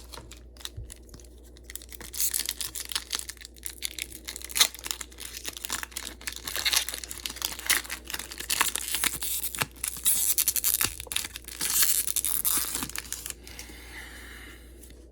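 Foil wrapper of a Pokémon TCG Evolving Skies booster pack crinkling and tearing as it is torn open by hand, starting about two seconds in and dying away near the end.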